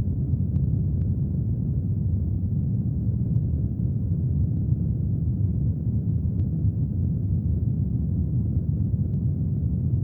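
Brown noise mixed with rain: a steady deep hiss, heavy in the low end, with a few faint drop ticks here and there.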